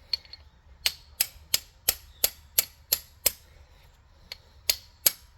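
Socket ratchet clicking: sharp metallic clicks about three times a second, eight in a row, a short pause, then two more near the end.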